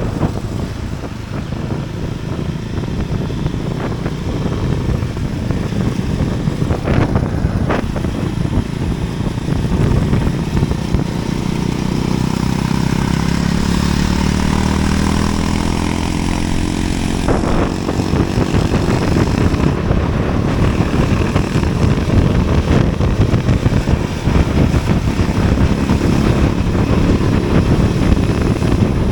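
A motor vehicle driving on a road: steady engine and road noise, with the engine note rising and falling for a few seconds around the middle. Two short knocks come about seven seconds in.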